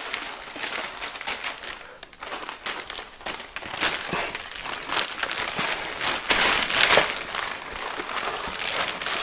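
Plastic packaging crinkling and rustling as a foam model-jet wing is packed back into its box, with many small clicks and knocks, busiest in the second half.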